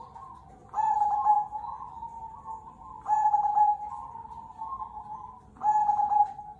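Zebra dove (perkutut) cooing: three loud, clear coo phrases come at even intervals about two and a half seconds apart. Softer, steady cooing carries on between them.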